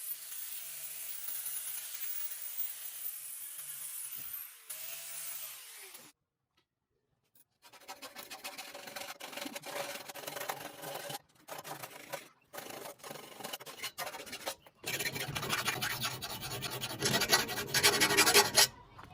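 Rough rubbing and scraping in several stretches, separated by short gaps, with a second or so of dead silence about six seconds in. It is loudest near the end.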